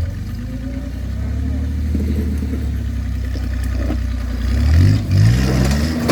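Off-road vehicle engine running steadily under light throttle, then revving up twice near the end, its pitch rising each time.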